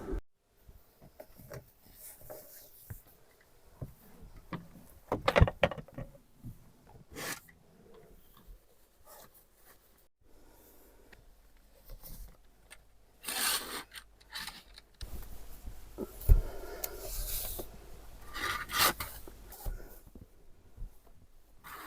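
Intermittent scraping and rubbing with scattered knocks, coming in uneven clusters with quiet gaps between.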